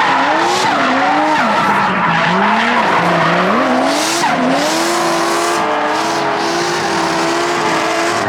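Drift cars' engines revving up and down hard as they slide, over tyres squealing and skidding.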